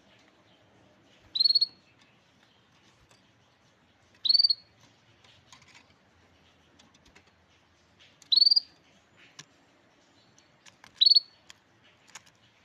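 A small songbird giving four short single call notes, each a quick upward sweep to a high note, spaced about three seconds apart, with faint ticks in between.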